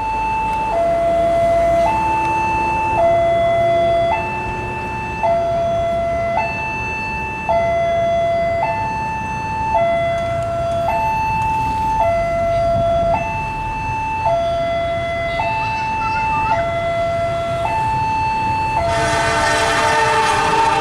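Railway level-crossing warning alarm sounding a steady electronic two-tone hi-lo signal, switching pitch about once a second. Near the end a train horn blows loudly over it.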